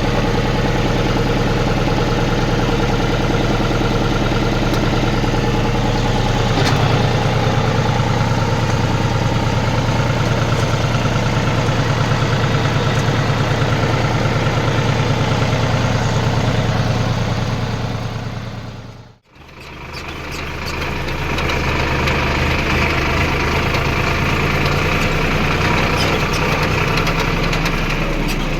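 Tractor diesel engine running steadily. Its note shifts about a fifth of the way in, then the sound fades out and straight back in about two-thirds through, returning as a running engine with a somewhat different note.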